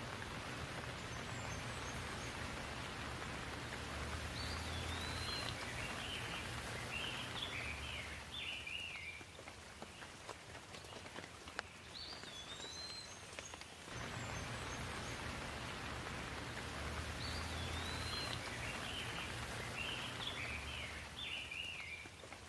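Steady rain falling, with a low rumble of distant thunder swelling under it twice and a bird's short whistled chirps twice.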